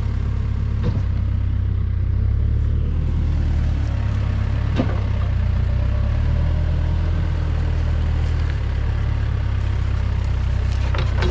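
Backhoe's diesel engine running steadily under working load, its note shifting about two seconds in and again near nine seconds, with a faint knock near the middle.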